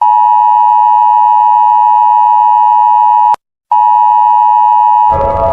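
Emergency alert attention tone: a loud steady electronic tone that cuts off with a click after about three seconds, goes silent for a moment, then starts again. Near the end, a lower, buzzing alarm sound with several tones comes in under it.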